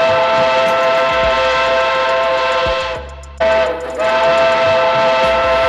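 Two long blasts of a loud, steady horn-like tone made of several pitches at once. The first blast cuts off about three seconds in and the second starts again half a second later.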